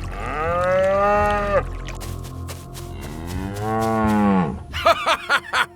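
A cow mooing twice, two long calls of about a second and a half each, the second rising then falling in pitch. Near the end, a quick run of short pitched notes follows.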